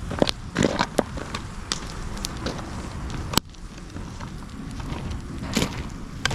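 Wood bonfire of dried branches and logs crackling and popping in irregular sharp snaps over a low steady rumble, with one sharp pop about halfway through.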